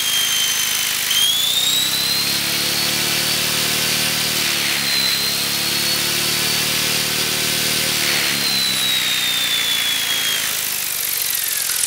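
Electric motor of an Esky E-smart ES 600 RC helicopter running, a high whine over a lower hum from the spinning rotor head. The pitch climbs about a second in, holds, then slides down from about two-thirds of the way through as the motor slows.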